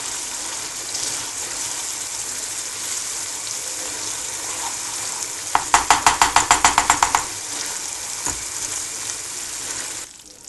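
Pancetta, shallot and cream cheese sizzling in a small non-stick frying pan as a wooden spoon stirs them, a steady frying hiss. Around the middle comes a quick rattle of about eight strokes a second for over a second. Near the end the sizzle drops away as the gas is turned off.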